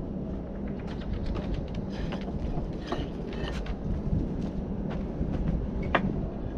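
Scattered sharp clicks and taps of bricklaying work, brick and trowel knocking as bricks are set, over a steady low rumble, with the clearest taps about three seconds in and about six seconds in.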